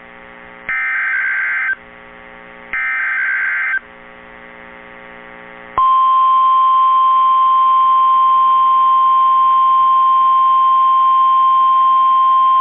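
NOAA Weather Radio SAME alert header: two one-second bursts of warbling digital data tones. About six seconds in, the steady 1050 Hz Warning Alarm Tone starts and holds. The sequence signals that a warning is about to be read, here a high wind warning.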